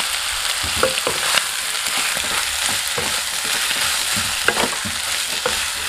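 Pigeon meat frying in oil and spice paste in a kadai, a steady sizzle, while a spatula stirs it and scrapes or taps against the pan with a few short clicks.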